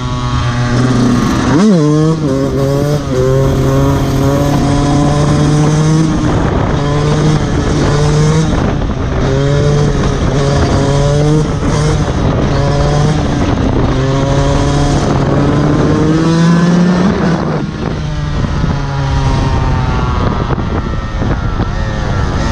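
Fantic XE 125 enduro motorcycle engine revving hard, its pitch climbing and then dropping again and again as the bike accelerates and shifts up through the gears.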